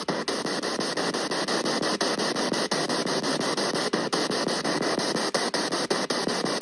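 Steady static-like hiss and rustle, broken by many brief dropouts a fraction of a second apart.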